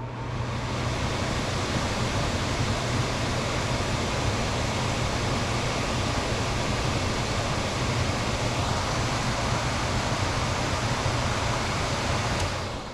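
HVAC indoor blower motor running with a steady rush of air over a low hum. It spins up about a second in and winds down near the end, with no buzz from the newly replaced blower relay.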